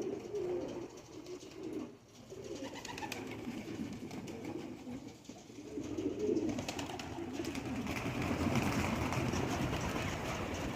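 Domestic pigeons cooing, low repeated coos over one another, with a rougher noisy background growing in the second half.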